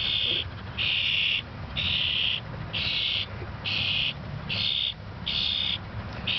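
A young wild bird's raspy begging calls, repeated evenly about once a second, eight in all: a hungry fledgling begging to be fed.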